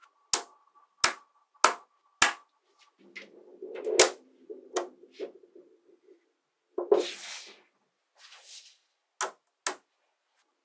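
Small magnetic balls snapping together with sharp clicks, about a dozen in all, four spaced evenly at first, then a busier cluster with the loudest snap about four seconds in. A short rustle of balls being handled comes around seven seconds in, and two last clicks near the end.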